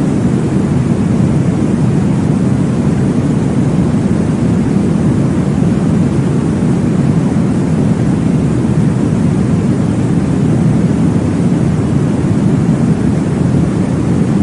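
Steady, deep whooshing noise of a baby-sleep white-noise track, heaviest in the low range, without pauses or changes.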